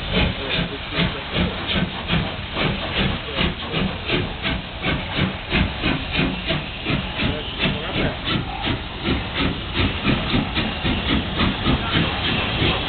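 Two steam locomotives, a ČSD class 486 and a class 498, pulling a train away, their exhaust chuffing in a regular beat of a few strokes a second over a steady hiss of steam.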